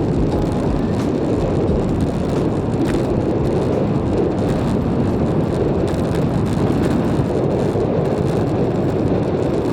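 Strong wind blowing across the microphone while cycling: a steady, loud, low rushing noise.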